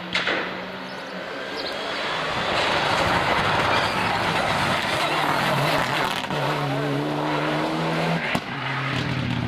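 Rally car running flat out past on a special stage: engine and tyre noise swell over a couple of seconds, then the engine note steps lower near the end as the car goes away.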